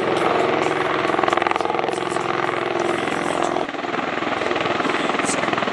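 Low-flying aircraft engine running overhead, a steady pulsing drone with a clear pitch that turns rougher and noisier about two-thirds of the way through.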